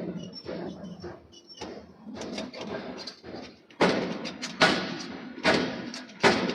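Hammer blows on hot steel in a forge: scattered light clinks and knocks, then, just past halfway, four heavy strikes a little under a second apart, each ringing briefly.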